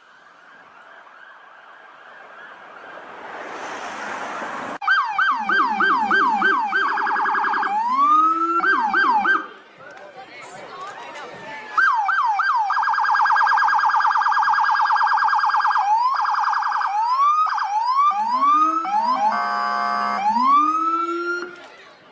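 American police car electronic siren switching between modes: a fast yelp, a very rapid warble and slower rising wail sweeps. It cuts in suddenly about five seconds in after a quieter stretch, and drops out briefly around the middle.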